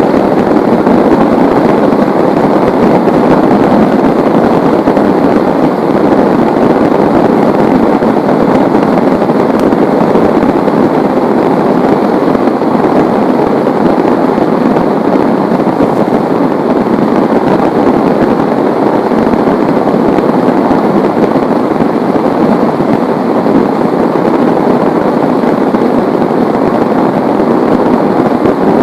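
Heavy rain pouring steadily, an even, unbroken rush of loud rainfall.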